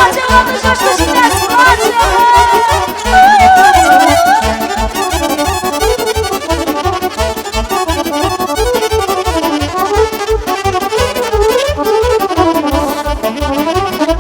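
Instrumental Romanian party music: accordion playing fast runs over a steady beat, with a wavering high melody line in the first few seconds.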